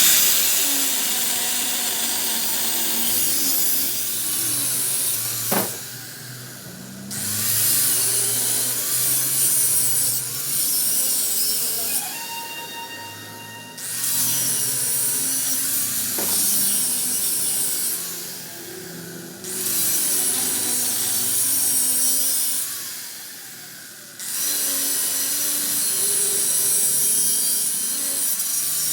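A power tool working metal in repeated passes of about four to five seconds, each a loud harsh hiss, with short pauses between them; a steady machine whine shows in one of the pauses.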